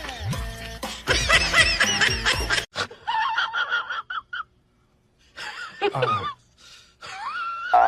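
Laughter in several short bursts with brief silences between them, high and wavering in pitch.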